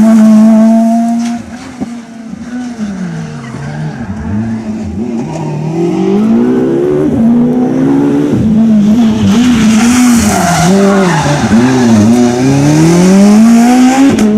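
Peugeot 206 S1600 rally car's four-cylinder engine revving hard on a stage, its pitch climbing and dropping again and again through gear changes and lifts. The sound drops away suddenly about a second and a half in, then builds back up, with a hiss of tyre noise around the middle.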